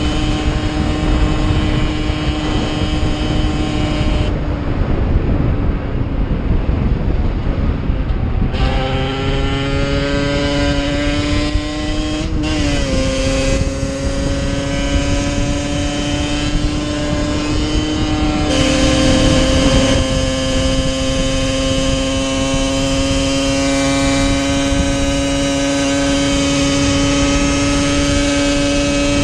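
Yamaha DT 50's single-cylinder two-stroke engine running under way at a high, steady pitch. Its note falls away about four seconds in, then climbs as the bike accelerates. It settles into a steady cruise pitch again for the second half.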